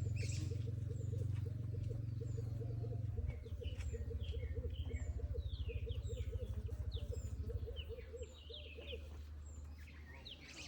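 Small birds chirping and tweeting over a fast, steady run of low pulsing calls. A heavy low rumble underneath eases about three seconds in and falls away further near the end.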